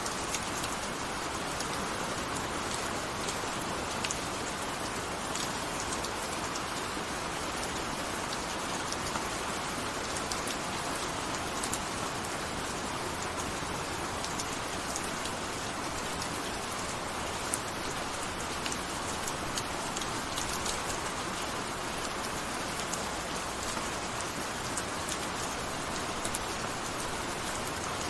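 Gentle steady rain falling, an even hiss with the scattered ticks of individual drops striking a surface.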